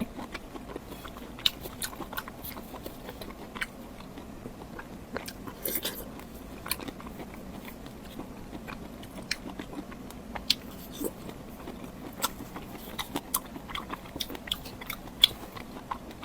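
Close-miked chewing and biting of crunchy food, with irregular crisp crunches and wet mouth clicks.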